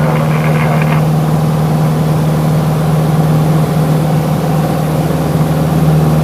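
Small propeller aircraft's engine running with a loud, steady drone, heard inside the cabin. A radio voice trails off about a second in.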